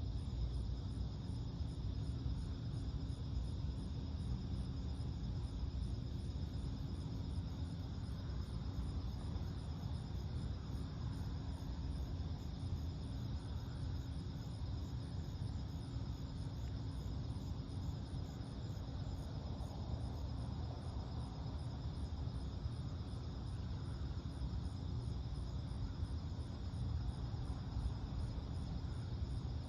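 Night insects chirping in a steady, even high-pitched pulse of a few beats a second. Underneath runs a low, steady rumble of distant traffic.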